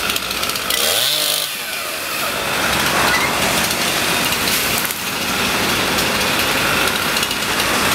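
Two-stroke chainsaw running steadily as firefighters cut up storm-broken trees, its engine pitch sliding briefly about a second in.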